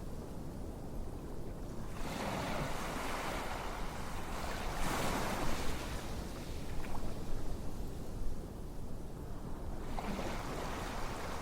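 Ocean waves washing on a shore, a rushing noise that swells and fades every few seconds.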